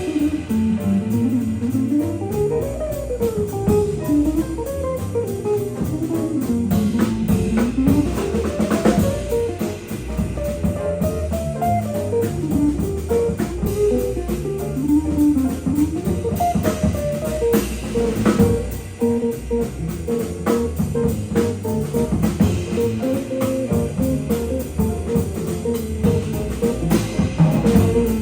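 Small jazz combo of guitar, alto sax, piano, double bass and drum kit playing an up-tempo tune, with a winding single-note line over bass and drums; the guitar is prominent.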